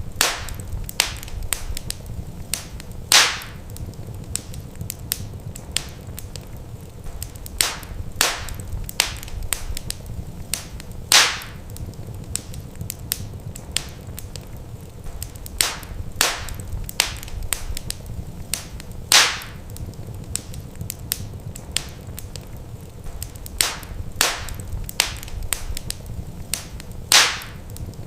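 Wood fire in a fireplace crackling: irregular sharp pops and snaps over a steady low rumble, with a louder pop about every eight seconds.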